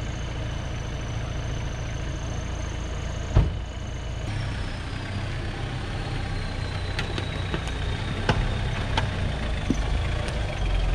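Four-wheel-drive vehicle engine running steadily at idle, with one sharp knock a little over three seconds in and several lighter clicks later on.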